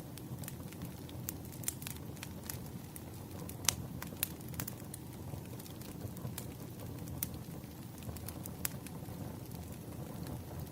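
Wood fire crackling in a fireplace: irregular sharp pops and snaps over a steady low rumble of flames, with a couple of louder pops about four seconds in.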